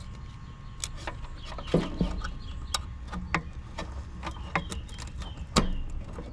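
Irregular sharp clicks and small taps from wires, connectors and a tool being worked at an air-conditioner condenser's contactor.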